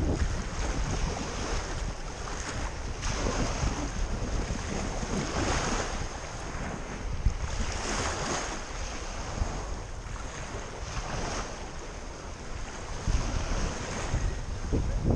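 Sea waves washing in, the surf swelling and falling back every few seconds, with wind buffeting the microphone.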